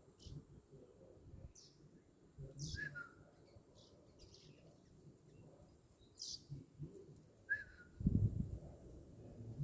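A bird chirping: scattered short, high chirps, a couple of them dropping sharply in pitch. A low thump or rumble about eight seconds in is the loudest sound.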